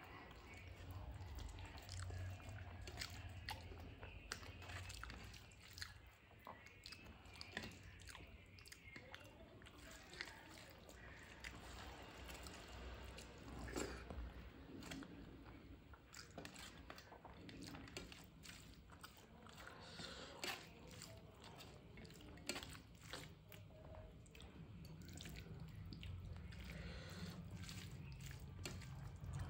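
Close-up eating sounds: a person chewing mouthfuls of rice and dal eaten by hand, with many short wet mouth clicks and smacks, and soft sounds of fingers mixing rice on the plate.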